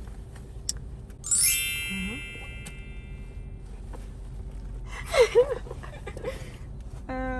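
A bright chime rings once about a second in and fades away over a second or so. A couple of short squeaky sounds come later, and a brief steady buzzing tone near the end.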